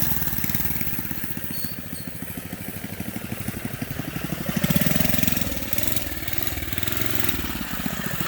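Small gasoline engine of a motorized bike running as the rider takes off. It revs up about halfway through, then the pitch falls and rises again.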